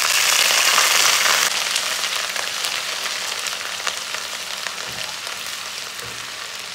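Chopped ginger and garlic sizzling in hot desi ghee in a wok, just after the ginger went in. The hiss is loudest for the first second and a half, then dies down steadily, with a few light clicks from the wooden spatula stirring.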